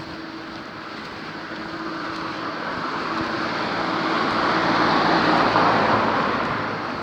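A road vehicle passing by: its traffic noise builds steadily, is loudest about five to six seconds in, then fades.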